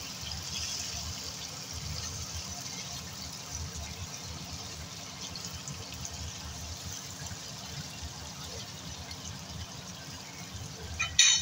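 Chicken and onion frying in oil in a pot over medium-high heat: a steady sizzle. A brief louder sound comes right at the end.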